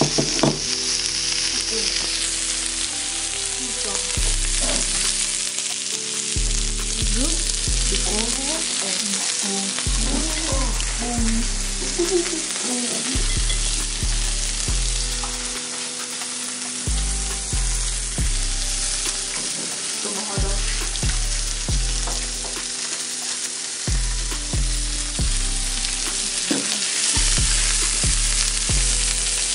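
Steady sizzling hiss of food frying in a pan, under background music with a low bass line stepping from note to note.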